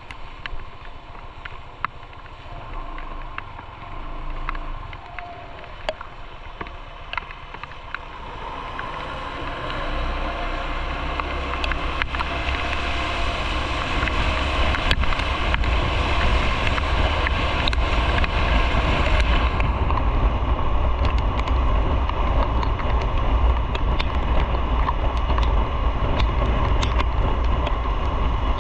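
Motorcycle riding with its engine rumbling under wind noise on the microphone; the rumble and wind rush grow louder as the bike speeds up about a third of the way in, then hold steady at speed.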